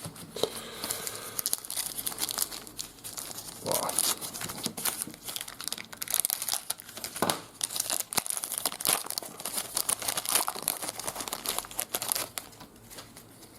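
A trading-card pack wrapper being torn open and crinkled by hand, an irregular run of crackles and rips, as the next pack of 1991 Impel Marvel Universe Series 2 cards is opened.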